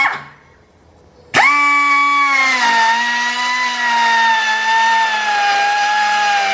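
A high-speed rotary power tool whining as it cuts into a steel suspension arm, slotting the bolt hole for an eccentric alignment bolt. It stops right at the start, is quiet for about a second, then starts again abruptly. Its pitch sags a little as it bites into the metal and then holds steady.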